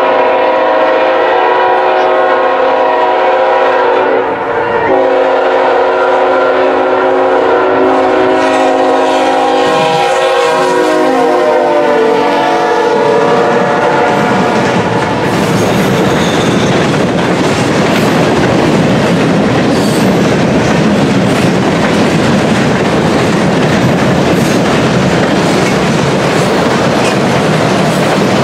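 Locomotive horn of CN 3009, leading Norfolk Southern freight train 120, blowing a long chord with one short break, its pitch sagging as the locomotive passes before it stops about halfway through. Then the freight cars roll by, with wheels clicking over the rail joints.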